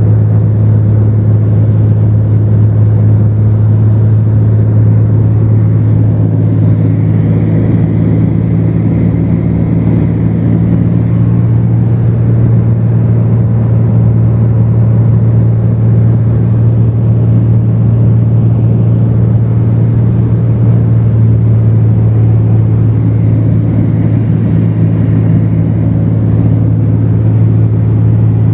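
A Cessna 210's piston engine and propeller droning steadily at constant power, heard from inside the cabin.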